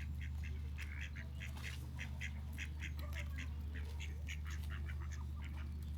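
A dense chorus of short, repeated animal calls, several a second, over a steady low hum.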